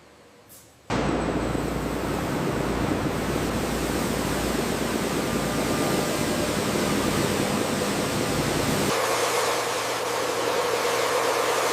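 A loud, steady rushing noise that starts abruptly about a second in and changes character near the end, losing its deep rumble and turning brighter.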